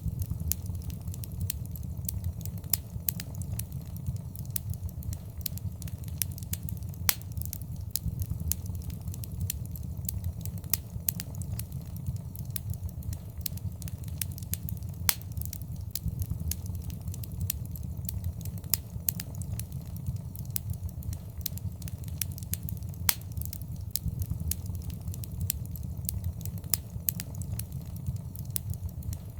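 Wood fire burning in a fireplace: a steady low rumble of flames with constant irregular crackles and occasional louder pops.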